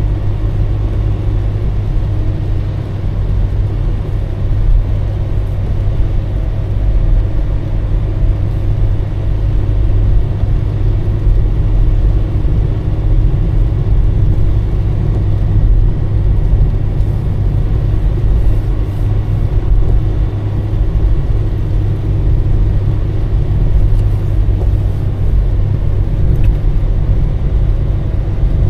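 Car being driven at a steady pace: a continuous low rumble of engine and road noise that holds even throughout.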